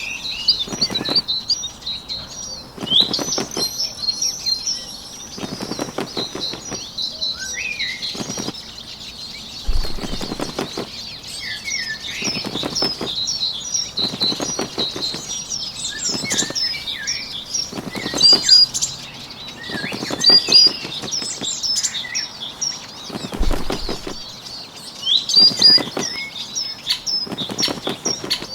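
Bursts of bird wing flapping, about one every two to three seconds, over a continuous background of small birds chirping.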